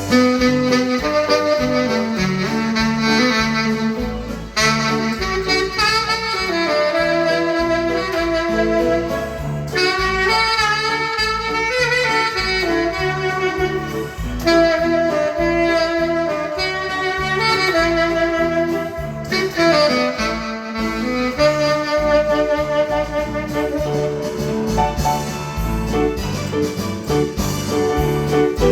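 Tenor saxophone playing a slow melody of long held notes over keyboard accompaniment with a steady bass line.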